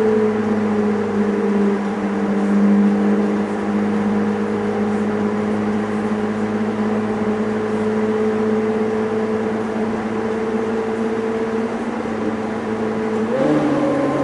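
Ferrari F430's V8 with an M.S. Racing aftermarket exhaust, running at a steady cruise with a constant drone that sags slightly in pitch, then steps up in pitch near the end as the revs rise.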